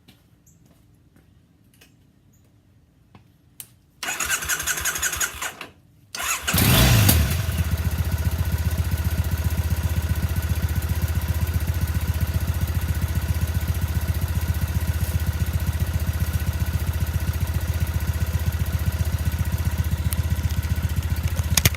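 Triumph Bonneville's parallel-twin engine being started: about four seconds in it cranks for roughly two seconds, stops, cranks again and catches with a quick rev, then settles into a steady idle, freshly filled with oil.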